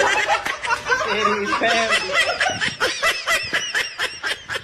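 A person laughing, the laughter turning into a quick, even run of short "ha" sounds in the second half.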